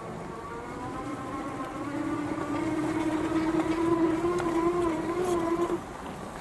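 Motor of a small trail vehicle running under way: a steady pitched whine that creeps slightly up in pitch and grows louder, then cuts off suddenly near the end, over a low rumble of travel noise.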